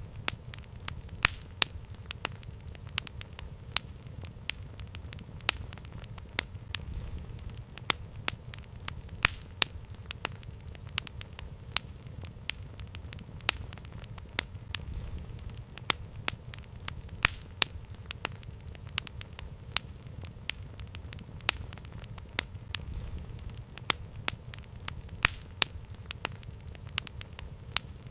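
Campfire crackling, with sharp irregular pops of burning wood several times a second over a low steady rumble of flame.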